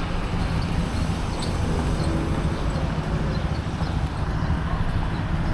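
Street traffic: a steady low rumble of vehicles on a city road.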